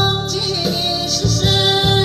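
A song with a woman singing held notes over a backing track with a steady low beat.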